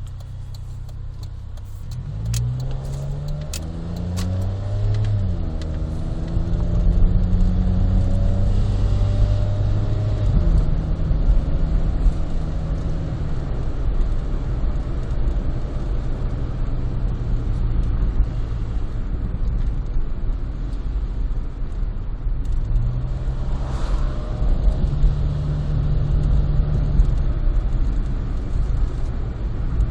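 Honda Life's small kei-car engine breathing through a Rosso Modello GT-8 aftermarket muffler, heard from inside the cabin with the window open. The car pulls away and accelerates, the exhaust note rising and dropping back at gear changes, then settles into a steady cruise and picks up again near the end.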